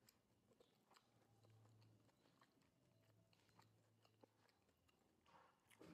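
Faint chewing of a battered fried mushroom, with soft mouth clicks throughout and a louder crunchy chew near the end.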